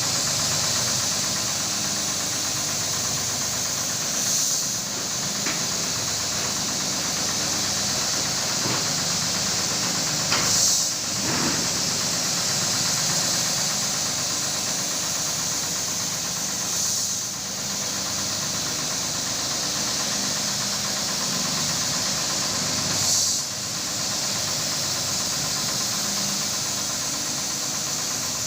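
Electric carpet-washing machine running steadily: a motor hum under a strong hiss, with a brief swell about every six seconds.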